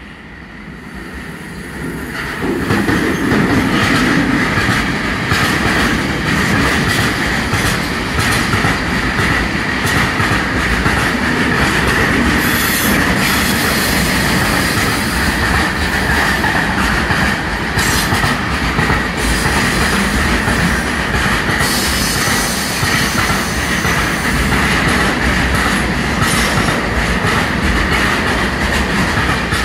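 A train running past on the rails, building up over the first few seconds to a steady loud rumble of wheels with clatter over the rail joints and a steady high wheel squeal.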